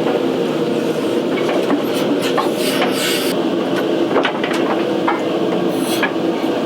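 Steady drone of an opal mine's blower running, with scattered knocks and clanks of metal gear being handled and a short hissing burst about three seconds in.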